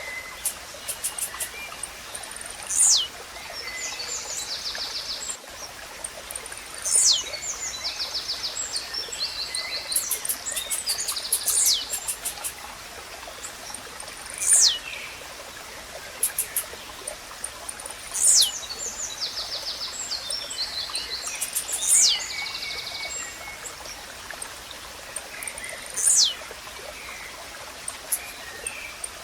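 Blue-black grassquit (tiziu) singing: a sharp, steeply falling high note repeated about every four seconds. Between the calls, other birds give rapid trills and ticks over the steady hiss of a running stream.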